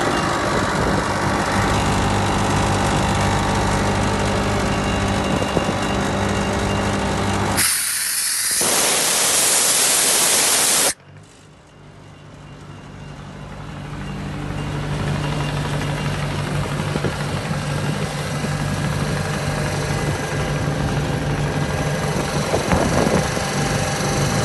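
An engine running steadily, broken about seven seconds in by a loud hiss of air lasting a few seconds that cuts off suddenly; after a brief lull the engine hum slowly comes back up and runs on steadily.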